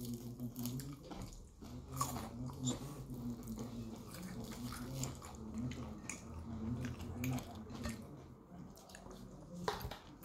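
Close-up chewing and crunching of crispy fried food, with many small crackles and mouth clicks, over a low hum.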